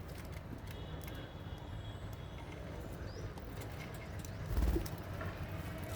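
Small cage birds in an aviary chirping faintly over a steady low rumble, with one dull thump about four and a half seconds in.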